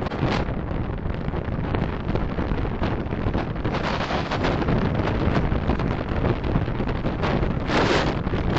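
Wind and road noise on a dashcam microphone while driving: a steady rushing with buffeting in the low end and a louder gust near the end.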